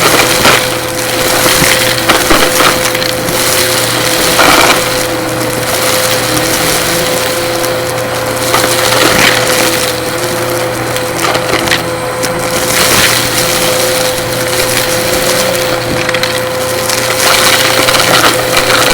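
Vacuum cleaner running with a steady motor whine while it sucks up dry, crunchy debris, which crackles and crunches irregularly through the hose and brush.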